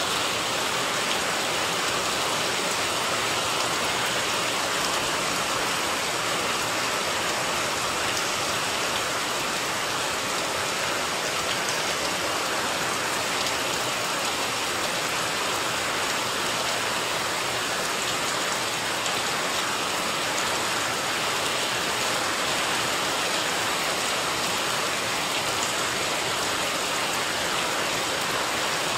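Steady rain falling on garden plants and into a water-filled flowerpot, an even, unbroken hiss of drops.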